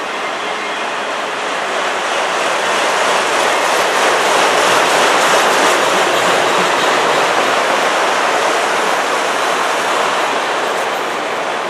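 Autorack cars of a freight train rolling past on steel rails: a steady, loud rush of wheel-on-rail noise that swells a few seconds in and eases a little near the end.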